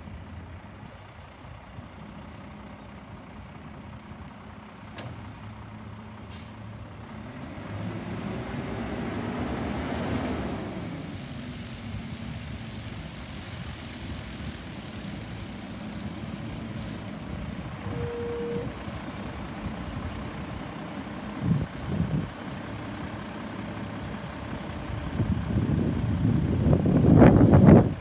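Garbage truck's diesel engine running, swelling louder about a third of the way in and growing loudest near the end, with a single short beep about two-thirds of the way through.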